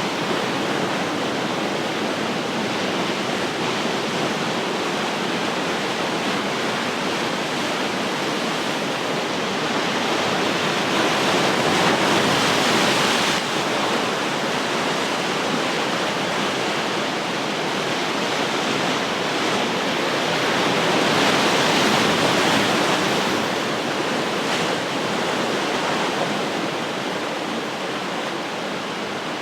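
Ocean surf washing onto the shore in a continuous hiss, swelling as waves break about every ten seconds.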